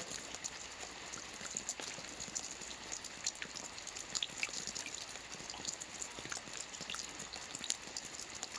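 Soft rain falling on a roof: a steady patter of many small drop ticks over a constant hiss.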